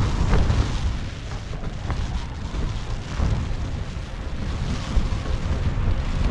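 Strong, gusty wind buffeting the tent and the microphone: a heavy low rumble that swells and eases, with a few faint knocks.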